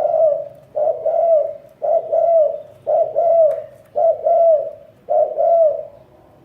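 Spotted dove cooing: six repeated coo phrases, about one a second. Each is a short note followed by a longer note that rises and falls.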